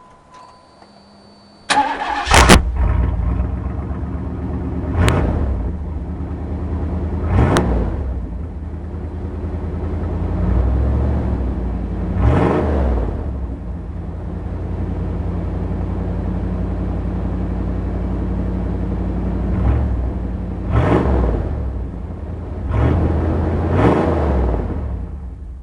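1992 Chevrolet Caprice wagon's V8 exhaust through a single straight pipe with the stock catalytic converter still on: the engine starts about two seconds in, idles with several short revs, and shuts off at the very end.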